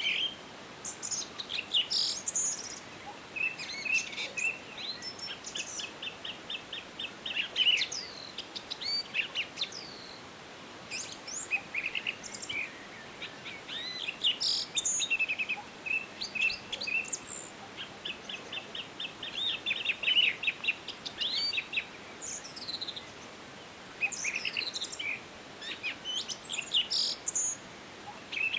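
Several songbirds singing, with song phrases every few seconds: fast trills of rapidly repeated notes and sharp, high sweeping chirps, over a faint steady background noise.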